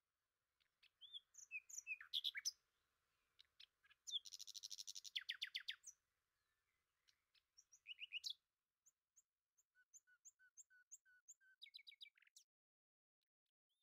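Faint birdsong: birds chirping in short bursts, with a fast trill about four seconds in and a run of short, evenly spaced notes near the end.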